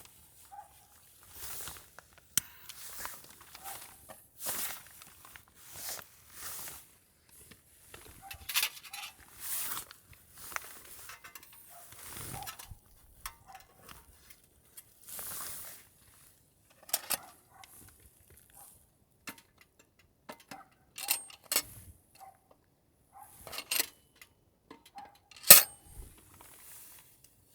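Camp cookware and metal utensils being handled: scattered clinks, taps and short rustles, with the sharpest clink near the end.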